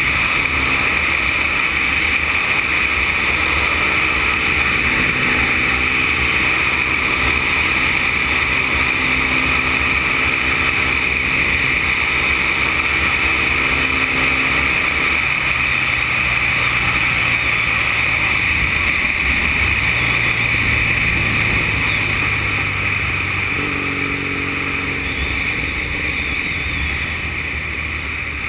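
Triumph Bonneville parallel-twin motorcycle engine running at a steady cruise, with a constant rush of wind and road noise; the engine note shifts a couple of times midway and the sound eases off a little near the end as the bike slows.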